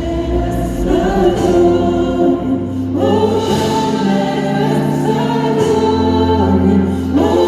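A choir singing a gospel-style song over a sustained bass accompaniment, with a change of chord about three seconds in and again near the end.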